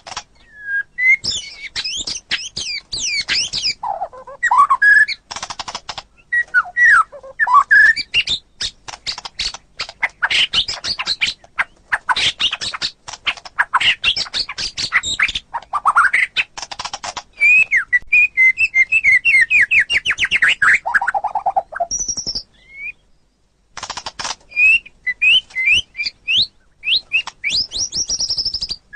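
White-rumped shama (murai batu) singing a varied, continuous song of gliding whistles, fast trills and sharp clicking notes. There is a short break about three-quarters of the way through.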